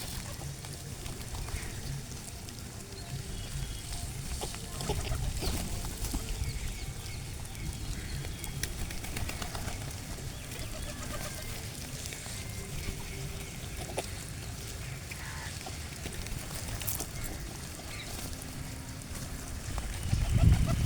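Birds gathered at a feeding spot: faint scattered bird calls over a steady low rumble, with a louder low bump near the end.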